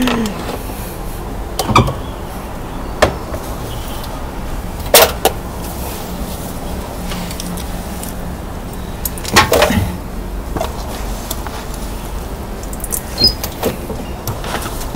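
Chopped onion and ginger sizzling in oil in a nonstick frying pan, with a spatula knocking and scraping against the pan several times as it is stirred.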